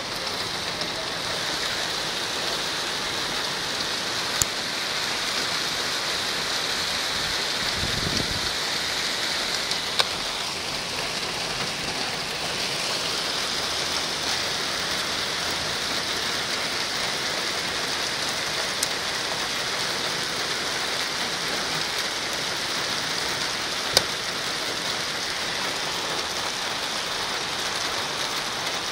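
Steady heavy rain falling, an even hiss throughout, with a few sharp ticks of drops striking something hard, the loudest about ten seconds and near the end, and a brief low rumble about eight seconds in.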